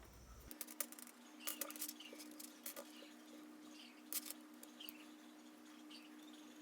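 Small hand tool working the nuts off the end of a Traxxas Velineon brushless motor: scattered light metallic clicks, ticks and short squeaks, loudest about a second and a half in and about four seconds in, over a faint steady hum.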